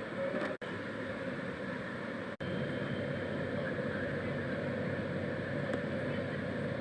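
Steady background noise with a faint low hum, broken twice by a brief dropout.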